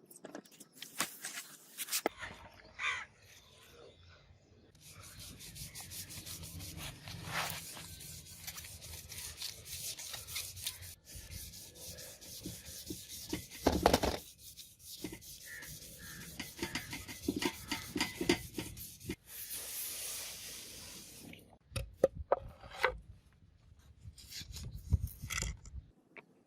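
Quick, rapid back-and-forth hand sanding strokes on a Japanese sword blade during its restoration, followed by a short hiss and a few separate sharp knocks near the end.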